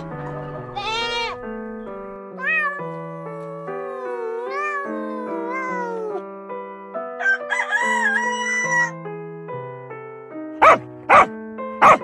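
Goat bleating with a wavering pitch about a second in, over gentle background piano music. Then a domestic cat meowing in several calls that glide up and down, a longer call, and three short, very loud calls near the end.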